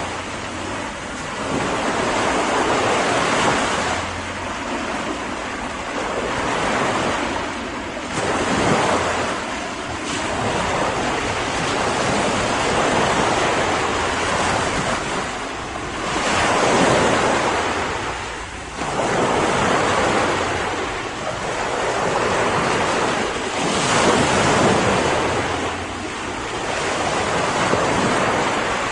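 Ocean waves breaking and washing on the shore, the surf swelling and ebbing every few seconds.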